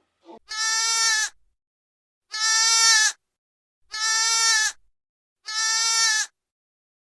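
Sheep bleating: four long, steady-pitched bleats, each just under a second, about a second and a half apart.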